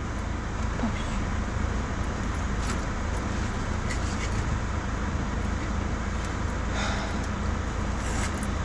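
Steady car-interior noise: a constant low rumble and hiss heard inside the cabin, with a few faint clicks.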